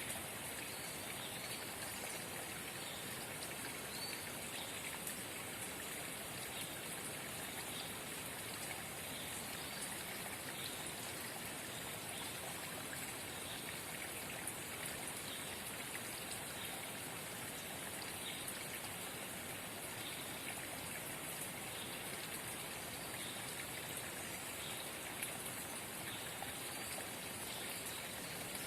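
Forest spring babbling steadily: a continuous trickle and splash of running water.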